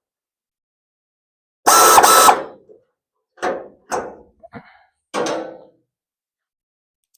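A power tool runs once, briefly, then four short metal clunks follow, each with a little ringing.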